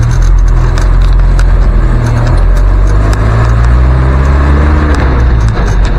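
1971 Land Rover Series 2a Marshall ambulance's engine running under way, heard from the cab. The revs climb over a couple of seconds and drop about five seconds in, with frequent rattles and knocks from the body.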